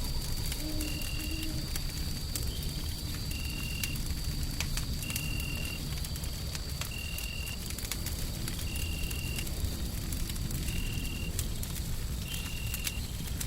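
Wood fire crackling with scattered sharp pops over a steady low rumble of white noise. A short, faint high tone repeats roughly every two seconds.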